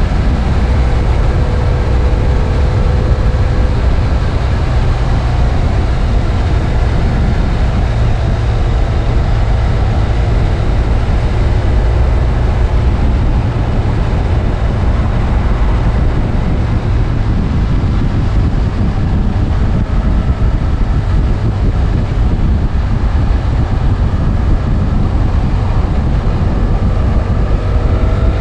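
BMW F800 ST motorcycle riding at a steady pace: heavy wind rumble on the microphone over the steady drone of its parallel-twin engine.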